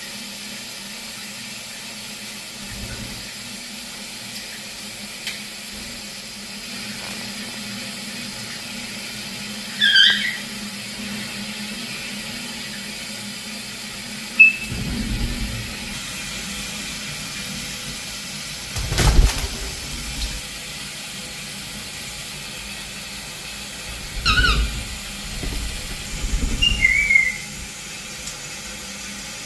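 Pet parrot giving a few short, high squeaky chirps, spaced several seconds apart, over a steady hiss, with a few dull thumps and one sharp knock in between.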